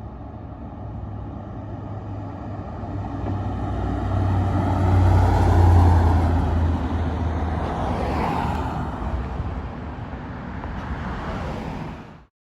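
An emergency vehicle driving past: engine and road noise grow louder to a peak about six seconds in, then fade. The sound cuts off suddenly near the end.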